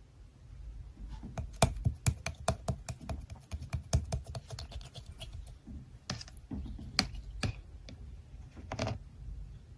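Clear, jelly-textured slime being pressed and poked by hand, giving a quick run of sticky clicks and pops, then a few slower, softer squishes.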